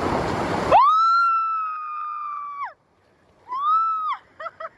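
Rushing water noise that cuts off under a second in, then a person's long high-pitched scream held for about two seconds, a second shorter scream, and a run of quick laughs near the end.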